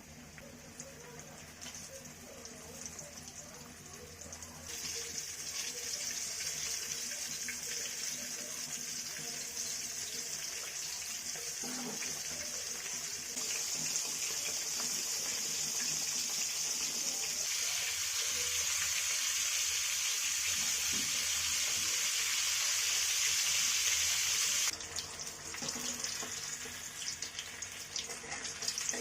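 Chicken deep-frying in hot oil: a steady, loud sizzle that grows louder in steps and cuts off suddenly near the end.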